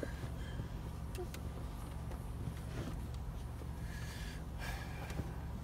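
Steady low hum of a car's engine idling, heard from inside the cabin, with a few faint clicks and rustles.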